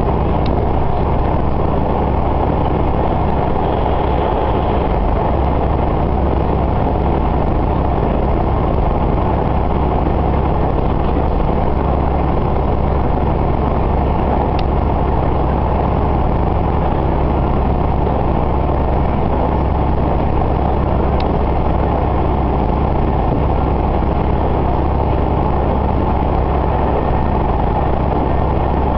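Diesel railcar running along the line, heard from inside: a steady low engine drone under continuous wheel and rail noise, with a few faint ticks.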